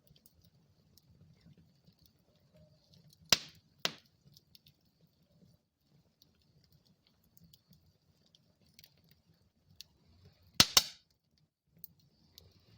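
Wood fire burning in a fireplace: a faint, steady low crackle broken by sharp pops of the burning wood, two a few seconds in and a louder double pop near the end.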